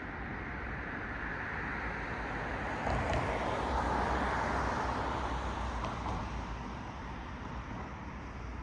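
A car passing on the road, its tyre and road noise swelling to the loudest about three to five seconds in and then fading away.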